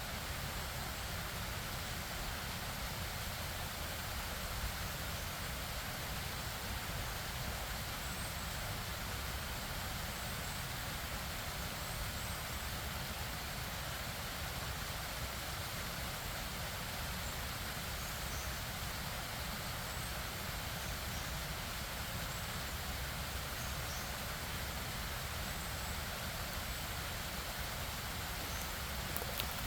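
Stream and waterfall water rushing and bubbling in a steady, unbroken noise.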